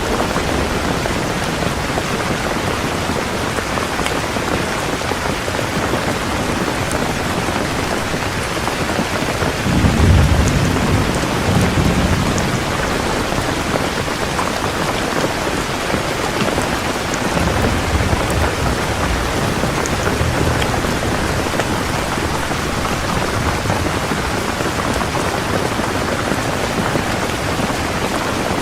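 Heavy rain pouring steadily. A low roll of thunder swells about ten seconds in, and a fainter one follows a few seconds later.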